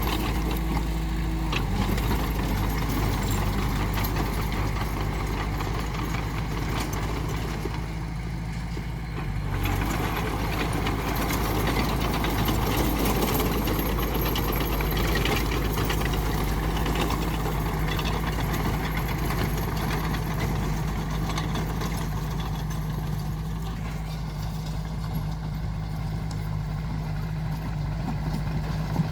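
Diesel engine of heavy earthmoving machinery running steadily, with a brief lull about eight seconds in.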